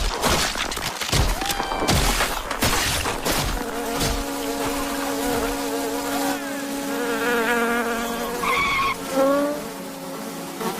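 Cartoon sound effects: a quick run of knocks and clatter, then the steady buzz of an insect's wings. Squeaky, warbling insect voices chirp over the buzz near the end.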